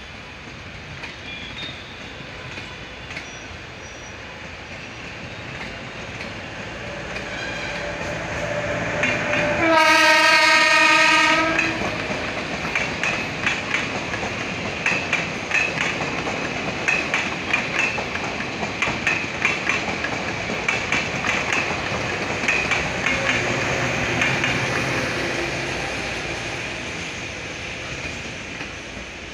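Indian Railways train sounding one steady horn blast of about two seconds, roughly ten seconds in. The train then passes with its wheels clattering rapidly over the rail joints, the clatter swelling and then fading near the end.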